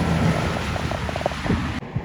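A heavy truck going by on the road, its engine and road noise mixed with wind buffeting the microphone. A short patter of pulsed tones sounds in the middle, and the sound cuts off abruptly near the end.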